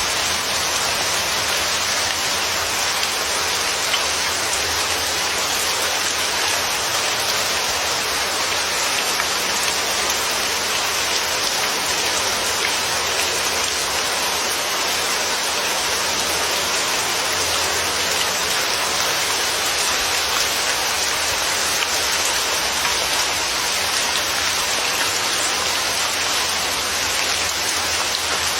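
Steady, even rainfall: a dense, unbroken patter of raindrops on a surface.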